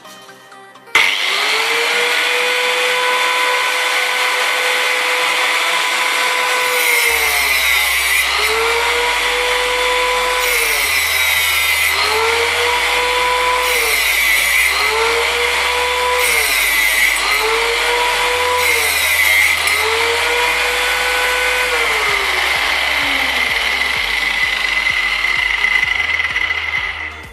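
Angle grinder switched on about a second in and running, its motor pitch dropping and recovering about six times as it is loaded into cuts, then winding down near the end.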